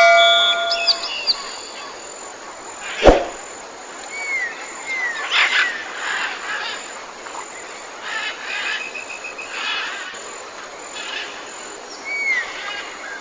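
Wild birds calling: short, curved chirps and a few buzzy notes scattered over a steady outdoor hiss, with one sharp click about three seconds in.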